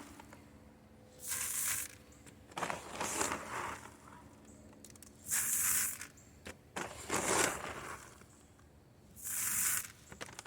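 Dry chicken scratch grain being handled and stirred by hand, in about five short rustling bursts a second or two apart.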